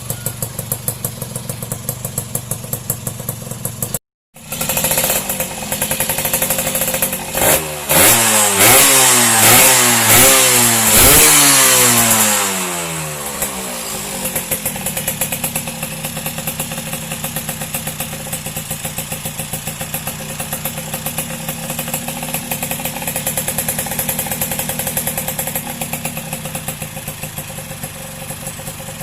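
Two-stroke Yamaha F1Z R engine fitted in a Yamaha V80 motorcycle, idling with an even pulsing beat. Near the middle it is revved in a run of quick throttle blips, the pitch rising and falling with each, then drops back to idle. The sound cuts out briefly a few seconds in.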